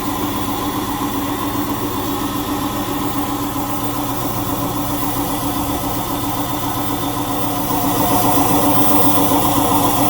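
Indesit 1400-spin washing machine running with its covers off: its motor turning the drum, a steady mechanical hum with a whine over it, growing louder about eight seconds in.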